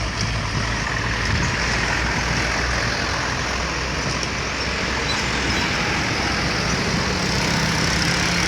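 Heavy truck engine running hard under load, a steady drone mixed with road noise; a steadier engine note comes up near the end.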